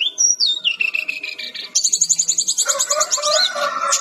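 A jungle flycatcher (sikatan-rimba dada-coklat) singing in a fast, varied run. Whistled notes slide downward first, then a rapid trill starts a little under two seconds in, with a lower warble under it near the end.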